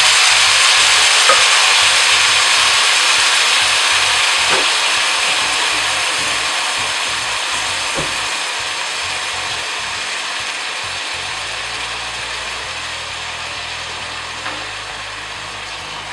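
Onions and vegetables frying in hot oil in a steel pot, sizzling under freshly added tomatoes; the steady sizzle slowly dies down, with a few faint ticks.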